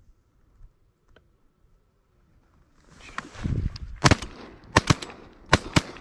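Shotguns firing at incoming ducks: a quick volley of about five loud shots within two seconds, starting about four seconds in, preceded by a couple of seconds of rustling movement.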